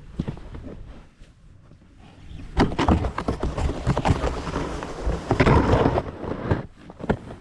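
Snow shovel scraping and scooping snow in irregular strokes, busiest from about two and a half to six and a half seconds in.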